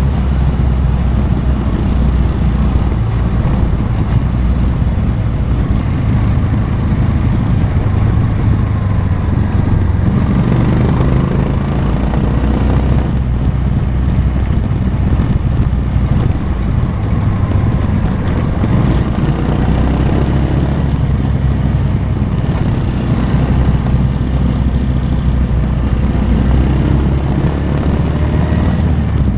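Motorcycle engine running while riding, its pitch rising and falling a few times with the throttle.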